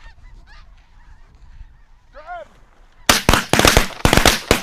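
Snow geese calling faintly overhead, then about three seconds in a rapid volley of shotgun blasts from several hunters, around eight shots in a second and a half.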